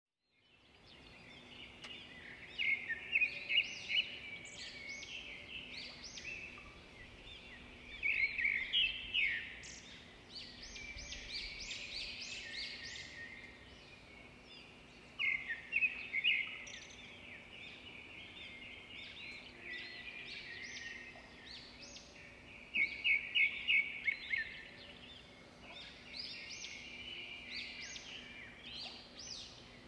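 Birds chirping and singing: bursts of quick, high chirps come every few seconds, with quieter twittering between them.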